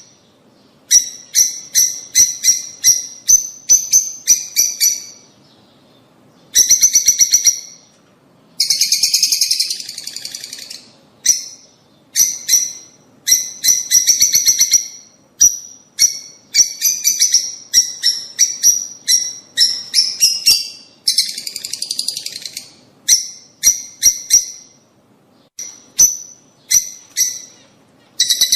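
Lovebirds calling: runs of sharp, high-pitched chirps repeated several times a second, broken by a few denser, chattering bursts.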